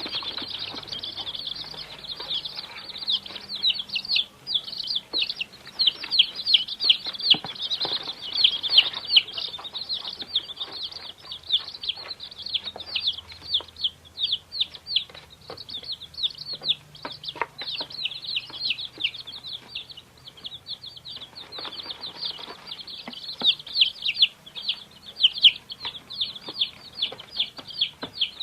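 A group of young chicks peeping continuously: many overlapping high, short calls, each falling in pitch, repeated several times a second.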